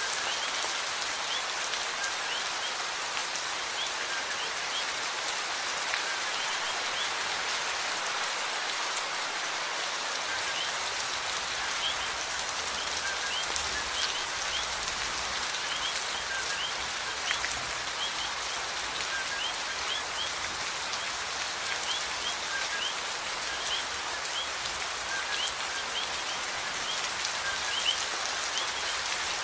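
Steady rain falling on a surface, an even hiss with occasional individual drops ticking. Short, faint high chirps recur irregularly in the background.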